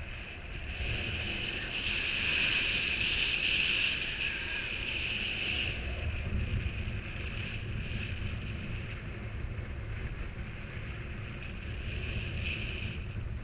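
Wind rushing over the microphone, a low buffeting rumble under a high hiss that swells for the first few seconds and then eases.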